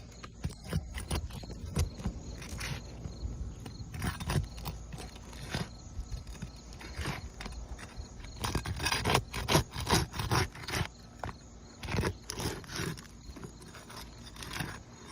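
Scraping and gritty rubbing on asphalt roof shingles, in short irregular strokes, with a busy run of quicker, louder scrapes about nine to eleven seconds in.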